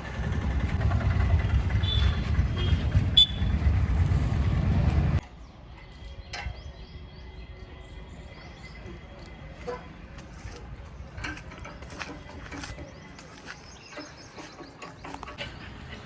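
A heavy vehicle's engine running with a loud steady rumble that cuts off suddenly about five seconds in. After that, quieter scattered mechanical clicks and knocks.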